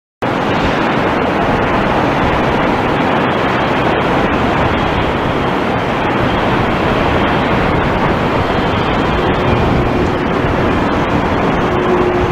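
Steady jet aircraft engine noise, a dense even rush, with a faint steady hum coming in about three-quarters of the way through.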